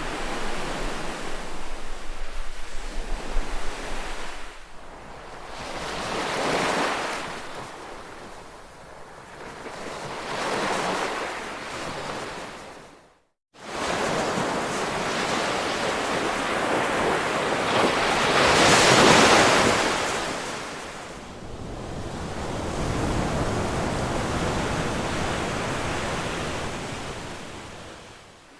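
Ocean waves washing onto a shore, each one swelling and fading, the biggest about nineteen seconds in. The sound cuts out completely for about half a second a little after thirteen seconds in.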